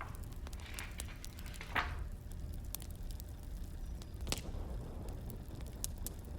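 Firewood burning: irregular crackles and pops over a low steady rumble, with one louder hissing pop just before two seconds in.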